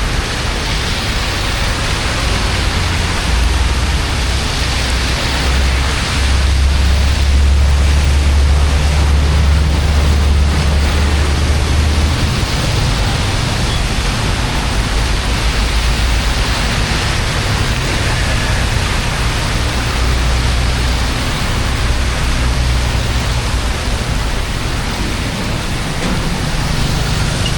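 Floodwater rushing into a cleared storm drain: a loud, steady hiss with a deep rumble that swells for several seconds in the first half.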